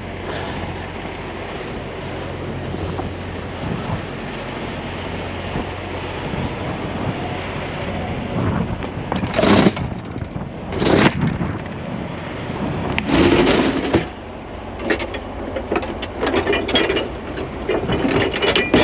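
Truck engine idling under a steady low hum. From about nine seconds in come several short loud noises, then a quick run of knocks and clanks.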